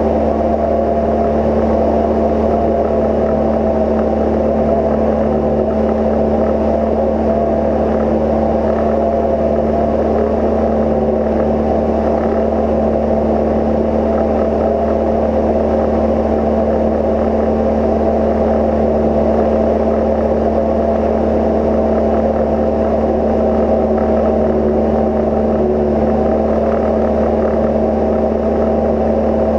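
Steady drone of a Cozy Mk IV's pusher engine and propeller in cruise flight, holding an even pitch throughout.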